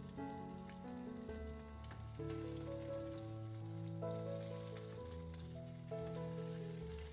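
Bread rolls shallow-frying in butter and oil in a pan, sizzling steadily. Background music of slow held chords plays over it.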